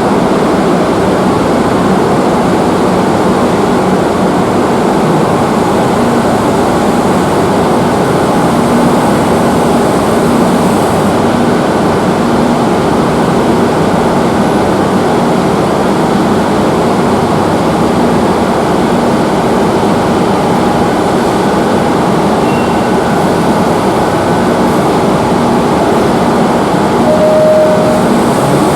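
Madrid Metro Line 5 train running through the underground station: a loud, steady rumble with a low motor hum, and a short higher tone near the end.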